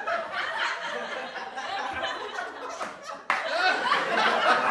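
A group of people laughing and chuckling over one another amid chatter. About three seconds in the sound cuts abruptly to a louder, busier stretch of crowd laughter.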